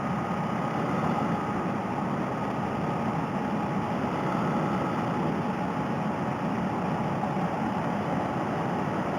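Honda Rebel 250 motorcycle cruising at a steady speed, its engine hum mixed with wind rush, heard through a helmet-mounted headset microphone.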